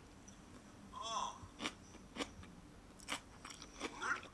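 Close-up crunching and chewing of seasoned mung bean sprouts, a series of sharp crisp crunches as they are bitten and chewed.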